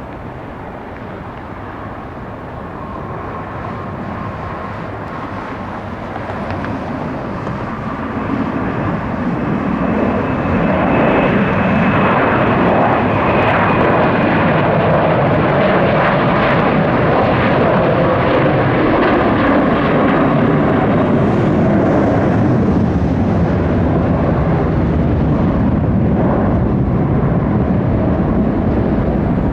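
Jet airliner's engines at takeoff power as it departs, growing louder over about the first ten seconds and then holding loud, with a high whine over the noise.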